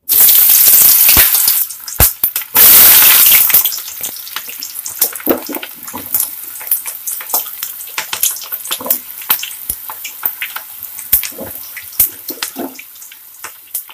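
Pumpkin pieces dropped into hot oil in a kadhai, sizzling loudly in two bursts in the first few seconds as they go in, then deep-frying with a steady crackle of spattering pops.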